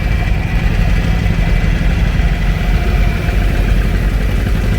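John Deere tractor engine running steadily.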